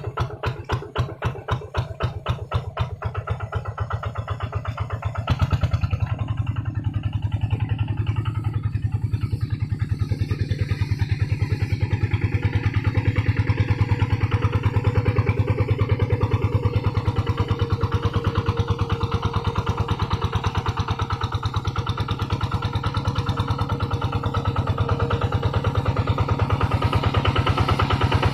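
Kubota RD110 single-cylinder diesel engine of a two-wheel hand tractor running under ploughing load, with a steady, fast, even chugging beat. About five seconds in it gets louder and heavier.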